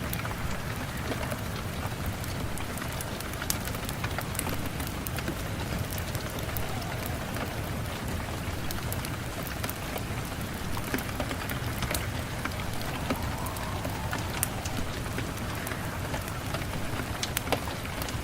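Steady rain with a wood fire crackling: an even hiss and low rumble, with scattered sharp pops at irregular moments.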